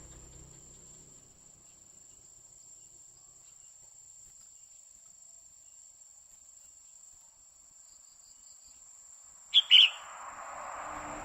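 Female red-whiskered bulbul giving two sharp, loud calls in quick succession near the end, over a faint steady high-pitched whine like a cricket. A rushing noise sets in right after the calls.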